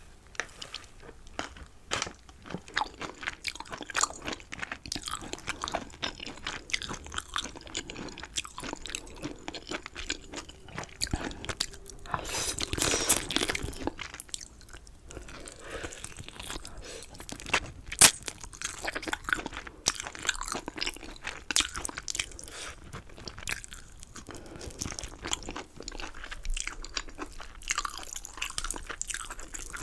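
Close-miked chewing of chicken wings and chicken gizzards, full of sharp, crisp crunches, with a louder run of crunching about halfway through and one sharp loud crack a little after.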